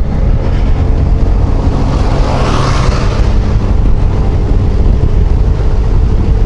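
Yamaha XMAX 250 scooter's single-cylinder engine and wind rushing over the rider's microphone on the move, with a louder noisy swell about two to three seconds in.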